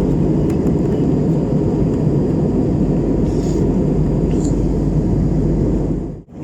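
Steady, loud cabin noise of an Airbus A321 in flight: engine and airflow rumble heard from a passenger seat. It cuts out abruptly near the end and then returns.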